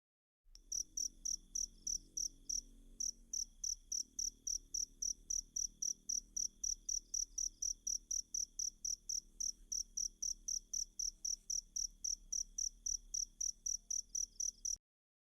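Cricket chirping: a fast, even train of high-pitched pulses, about five a second, that starts about half a second in and cuts off suddenly near the end.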